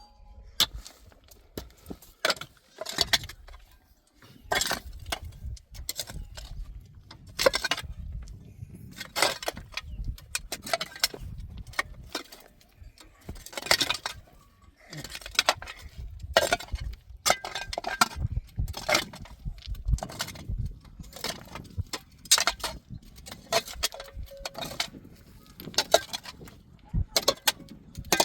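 Metal livestock bells clinking and jangling irregularly as the animals move, with many short clinks and knocks and a brief ringing bell tone now and then.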